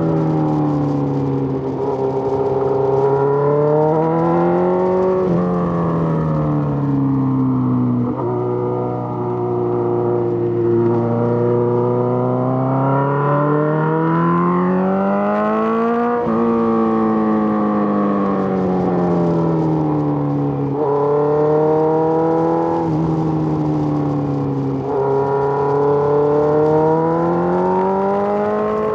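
Suzuki GSX-R1000's inline-four engine running on the move, its revs rising and falling over and over as the throttle is opened and rolled off, with a few sudden drops in pitch at gear changes.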